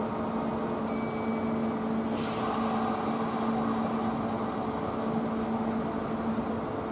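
Kintetsu 21000 series Urban Liner Plus express train standing at the platform with a steady hum. About a second in a short high beep sounds, and from about two seconds a steady hiss of air starts, just before the train pulls out.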